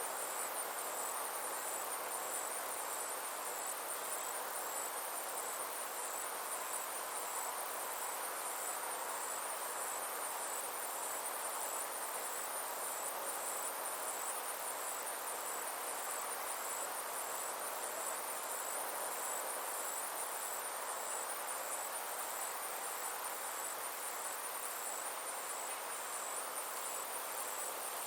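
Insects trilling steadily in a high, evenly pulsing chorus over a soft, constant hiss of summer ambience.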